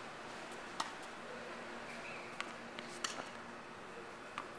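Tennis ball being hit and bouncing during a rally: a handful of sharp, light pops spaced irregularly, the two clearest about a second in and about three seconds in, over a low steady background.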